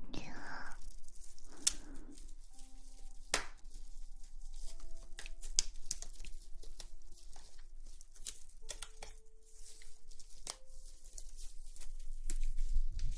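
Close-miked ASMR rustling: soft crinkling and tearing-like rustles with scattered sharp clicks, a little louder in the first two seconds.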